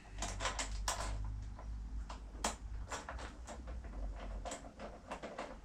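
Socket wrench with a 10mm socket undoing a screw on a lawnmower's starter housing: a string of sharp, irregular clicks, a few each second.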